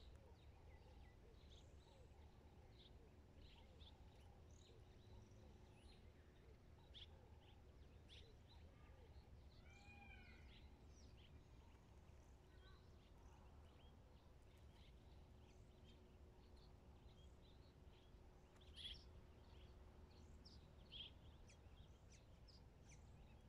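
Near silence of open grassland, with faint scattered bird chirps and a few arched calls about midway, over a low steady rumble. Two slightly louder chirps come near the end.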